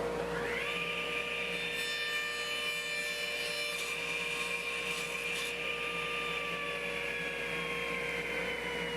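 A power tool's electric motor spins up to a high whine within about half a second and then runs steadily, its pitch sagging slightly, over a constant low hum.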